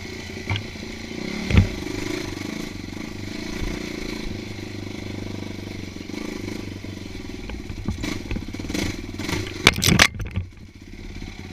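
Dirt bike engine running steadily, with sharp knocks and clatter, the loudest a cluster near the end, after which the engine sound falls away.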